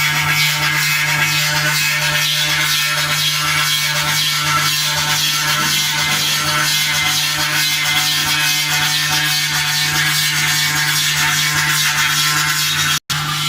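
CNC engraving machine running steadily, a constant spindle hum under a dense high cutting hiss as it engraves a silver plate. The sound drops out for an instant near the end.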